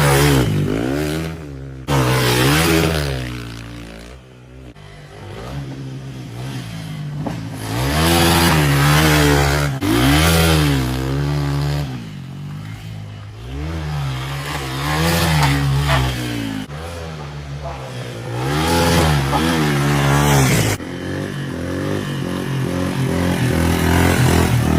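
Yamaha TW200's single-cylinder four-stroke engine revving up and falling back again and again while the bike is ridden, its pitch climbing and dropping with the throttle and gear changes about six times.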